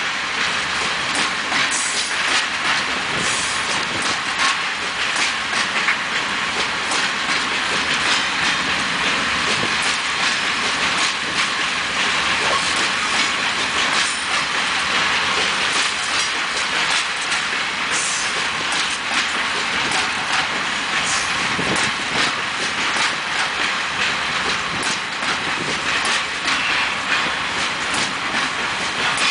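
Long, heavy freight train of open coal wagons rolling past, its wheels clicking over the rail joints in a steady clickety-clack over a continuous hiss of wheel-on-rail noise.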